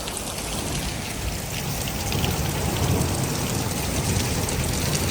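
Heavy rain pouring down and drumming on the roof, a dense steady patter that grows a little louder about two seconds in, with a low rumble underneath.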